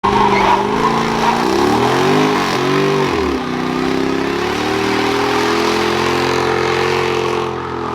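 Car engine running, revved twice in quick succession about two to three seconds in, then holding a steady speed.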